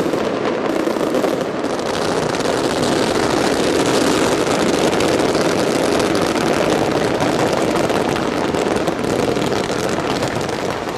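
Fireworks barrage at full intensity: volleys of ground-fired fan comets and bursting shells, with launches and bursts overlapping into one dense, continuous noise.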